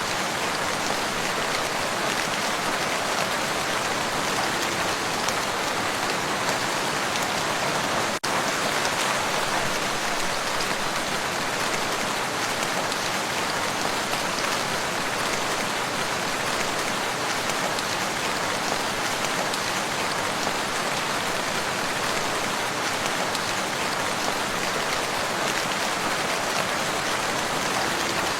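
Steady, heavy rain falling on the surface of a lake, an even continuous patter. There is a momentary dropout about eight seconds in.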